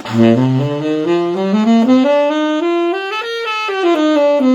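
Saxophone playing a fast scale run, note by note up to a high point and straight back down.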